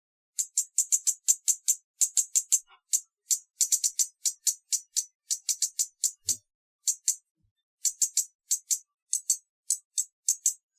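Hummingbird giving sharp, high-pitched chip notes in quick runs of several a second, with a short pause about seven seconds in.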